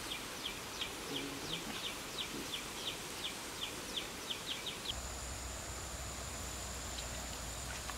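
A bird calling in a rapid series of short, falling chirps, about three a second, which stop about five seconds in. After that, a steady high whine and a low hum continue under the outdoor ambience.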